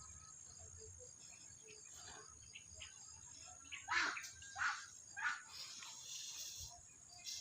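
Crickets trilling steadily in a high tone, with three short, dry rustling crunches about four to five and a half seconds in.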